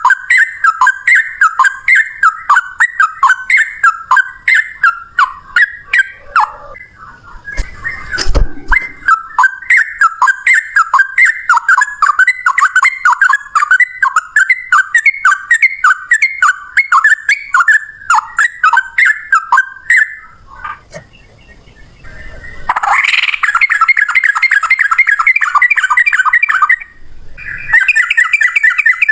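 Sooty-headed bulbul (trucukan) singing its long rapid 'ropel' song: a run of short repeated whistled notes, about three a second, broken by two brief pauses, turning into a faster, denser run about 23 seconds in. A single knock sounds about 8 seconds in.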